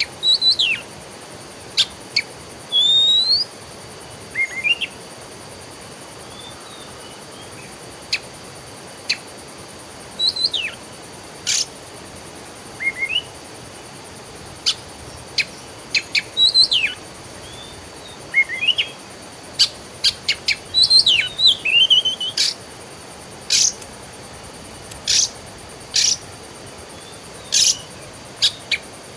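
Songbirds chirping in short, scattered calls and quick sliding notes, with sharp clicky notes mixed in. The calls come more thickly in the second half.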